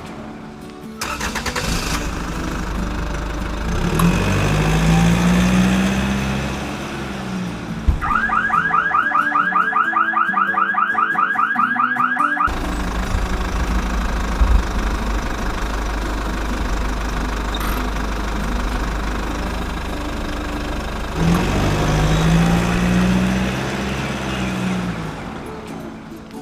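Vehicle engine running with a low rumble, revving up and back down twice. Near the middle, a rapid warbling alarm-like tone pulses several times a second for about four seconds.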